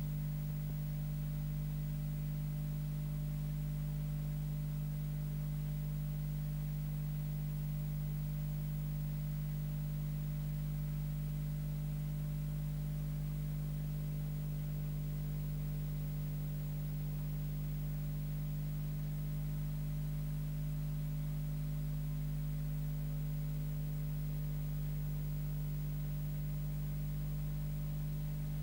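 Steady low electrical hum with a faint hiss, unchanging throughout, with no other sound.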